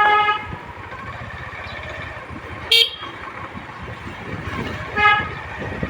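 Vehicle horn sounding during a ride over steady road and engine noise: a long blast cuts off just after the start, a brief sharp beep comes about three seconds in, and a short toot about five seconds in.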